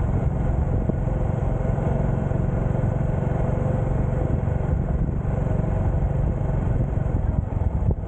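Motorcycle engine running at a steady pitch while riding, with road noise.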